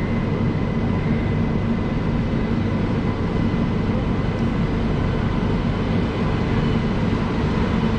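Passenger train hauled by a WAP-7 electric locomotive moving alongside, a steady rumble with a constant electrical hum.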